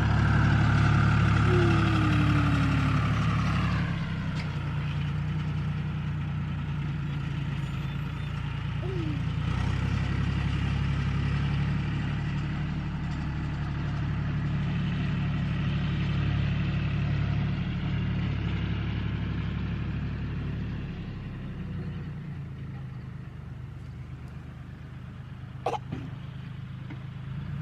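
Tractor engine running steadily, its level rising and falling as it works, then growing quieter in the last several seconds. A couple of sharp clicks sound near the end.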